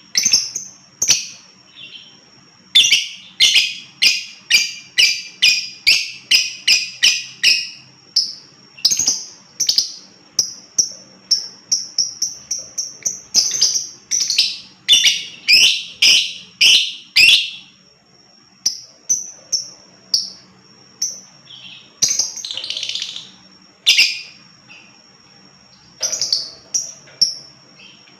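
Lovebird calling: a long, fast run of sharp, shrill calls, about two to three a second, then scattered single calls near the end.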